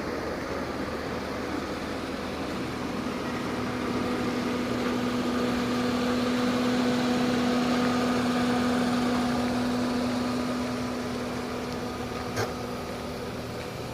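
Jaguar X-Type 2.1 V6 idling steadily through an exhaust taken from the 2.5 V6 model, a low even hum that grows louder in the middle and eases off again. A single sharp click comes near the end.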